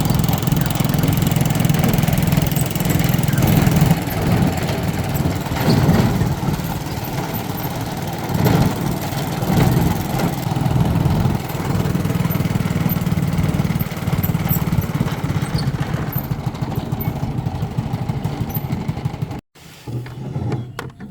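A small engine running steadily, cutting out suddenly near the end.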